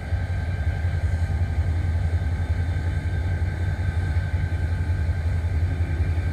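Steady low rumble of a freight train moving slowly through a rail yard, with a faint steady high tone above it.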